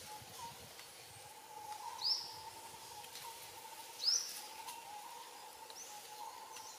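Wild birds calling in forest: a short, sharp, high call that rises and drops, repeated about every two seconds, over a faint wavering tone and light outdoor background noise.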